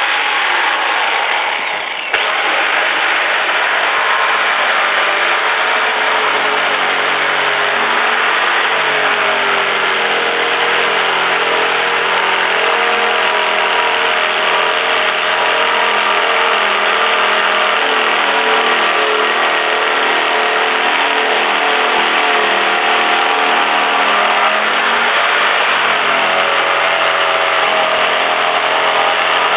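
A motor running steadily, its pitch shifting a few times.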